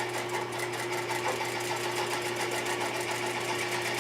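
Juki DDL-8300N industrial lockstitch sewing machine stitching steadily at a moderate speed: a fast, even ticking of the needle mechanism over a constant motor hum.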